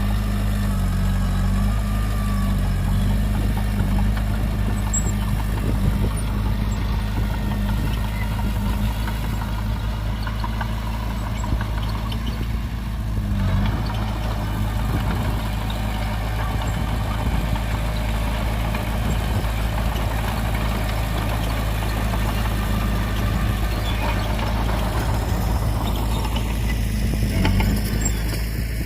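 Heavy earthmoving machinery's diesel engine running steadily with an even hum.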